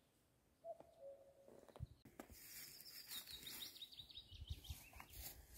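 Wild birds: a low two-note call about a second in, a short curved note followed by a held lower whistle, then a quick run of high chirping notes from a small songbird. Low wind rumble on the microphone near the end.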